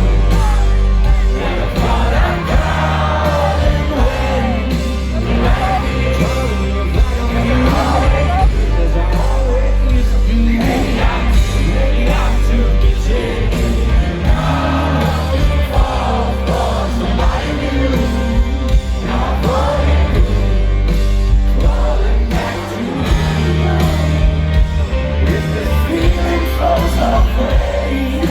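Rock band playing live through a large concert PA, with a heavy bass riff and drums, singing, and yells from the audience. The bass drops out briefly about three quarters of the way through, then comes back in.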